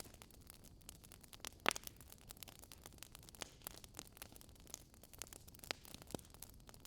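Wood fire crackling, with irregular sharp pops over a faint hiss.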